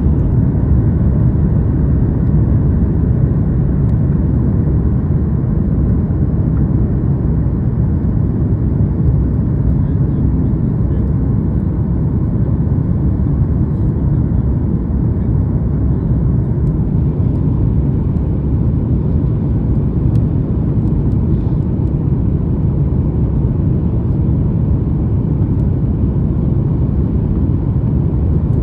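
Airliner landing: a steady low rumble that holds at an even level throughout, with no distinct knocks or changes.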